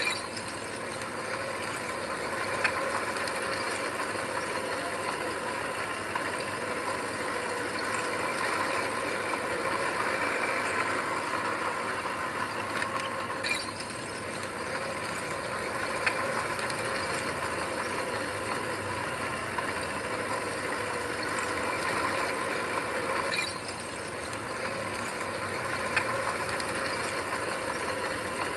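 Heavy diesel engine of earthmoving machinery running steadily, with a few short sharp clanks at scattered moments.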